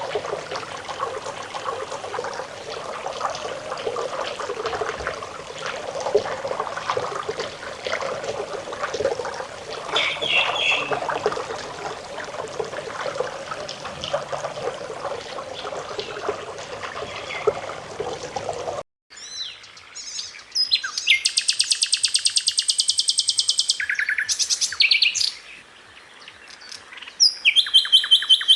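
Running water with faint bird calls in the background, which cuts off suddenly about two-thirds of the way through. Then a sikatan londo flycatcher sings loud, high, fast rolling trills and sharp chirps.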